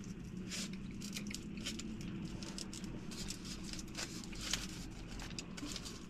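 Close-up chewing of a bite of chicken burrito: soft, wet mouth sounds with scattered small clicks and crinkles over a steady low hum.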